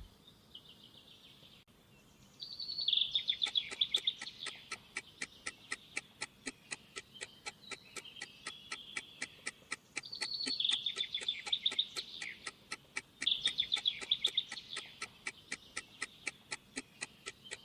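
Quiz countdown-timer sound effect: steady clock-like ticking, about three ticks a second, starting about two and a half seconds in, over birds chirping on and off.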